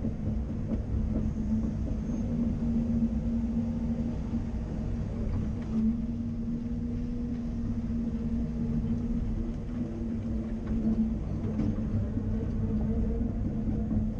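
CAT 330 Next Generation excavator's diesel engine running steadily, with a constant low hum and no sudden changes.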